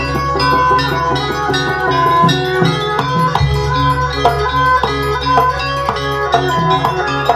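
A Banyuwangi traditional percussion ensemble playing live for a barong/jaranan dance: quick struck ringing notes and drum strokes over a deep sustained low tone.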